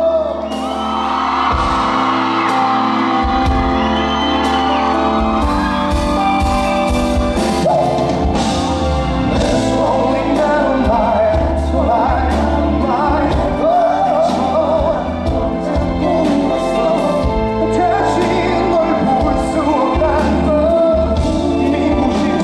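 Live pop ballad: a male singer sings a wavering, sustained melody over a band with a steady bass line and drum hits.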